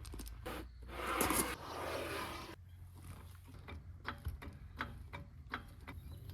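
2002 Audi A3's engine idling quietly through its chopped-muffler exhaust with a 4.5-inch tip, a steady low hum with a brief rushing swell about a second in and scattered light ticks.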